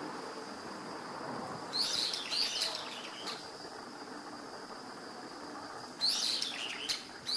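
Small songbirds chirping in two short bursts of quick high notes, one about two seconds in and one near the end, over a steady thin high-pitched tone.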